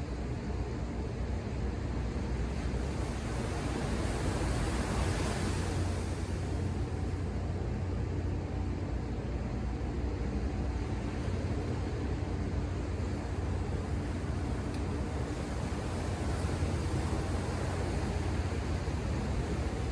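Ocean surf: a steady low rumble of waves, with a wave breaking and hissing about four to six seconds in and a softer one near the end. A faint steady low hum lies underneath.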